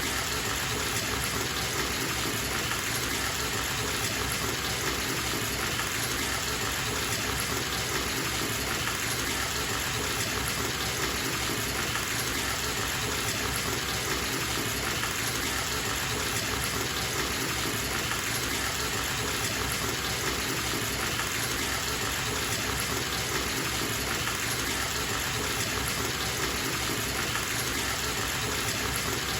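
Bathtub tap running full, water pouring steadily into the filling tub.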